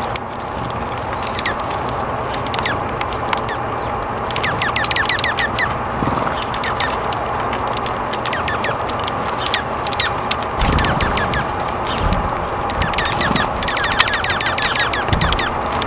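Small birds chirping in quick, clustered series of short high calls over a steady background hiss.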